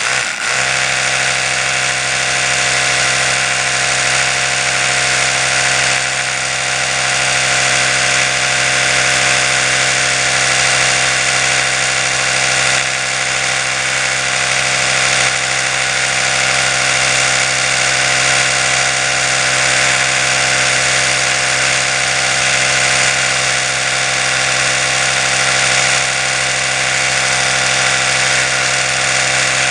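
Oral-B electric toothbrush motor running steadily, a constant buzz with a short wobble at the very start.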